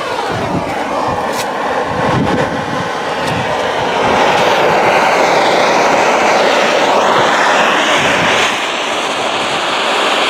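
A handheld butane torch hissing steadily as it lights a bee smoker. It grows louder about four seconds in and drops back after about four more, over wind buffeting the microphone.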